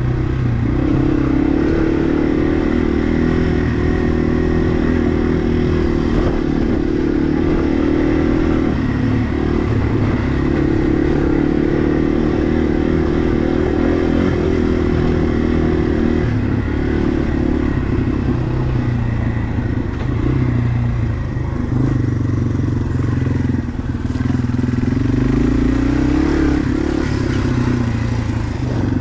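Yamaha TW200's air-cooled single-cylinder four-stroke engine running steadily as the bike is ridden, its pitch rising and falling a little with the throttle a few times.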